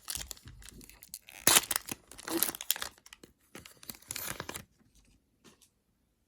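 A trading card pack's wrapper being torn open and crinkled in the hands, in irregular bursts with the loudest rip about a second and a half in; the handling stops a little before the end.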